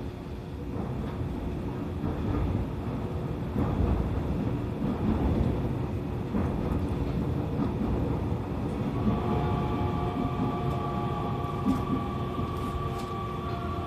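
E501 series electric commuter train running: a steady rumble and rattle of wheels on the rails. About nine seconds in, a steady whine of several tones from the traction motors sets in and holds.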